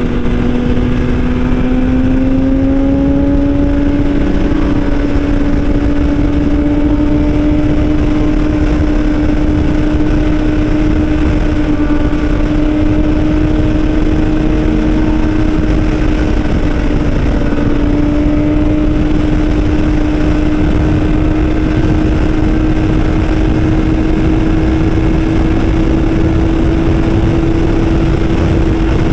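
Motorcycle engine running at steady high revs, its pitch rising a little in the first few seconds and then holding almost constant, over a continuous rushing noise.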